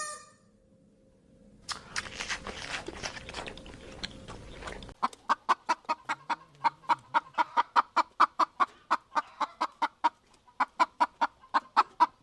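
A few seconds of steady hiss, then poultry calling in a rapid run of short, evenly spaced clucks, about four or five a second, with a brief pause near the end.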